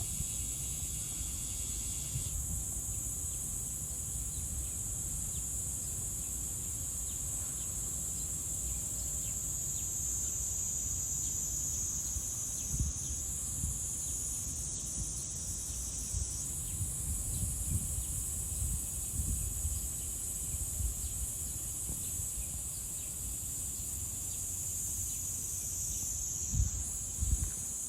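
A steady, high-pitched insect chorus, with irregular low rumbling swells underneath.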